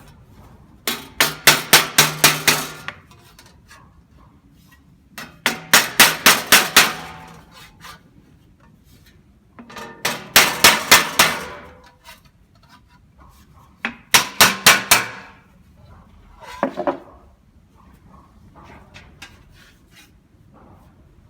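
Hammer striking car-body sheet metal in quick runs of about five to eight ringing blows, about four a second, with pauses between runs. A last, shorter run of lighter blows comes near the end.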